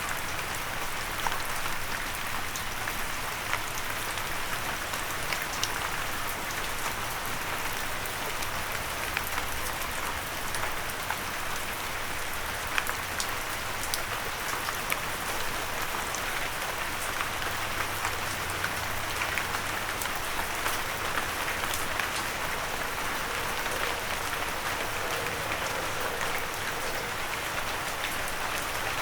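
Steady rain falling on a windowsill, a constant hiss with many individual drops ticking against the surface.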